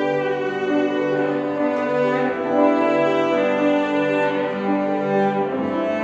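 Orchestra playing, with a cello line prominent over bowed strings in long sustained notes.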